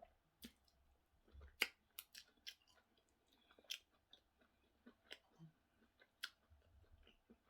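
Faint close-up chewing of plantain and sauce: soft, irregular mouth clicks, the sharpest about one and a half seconds in.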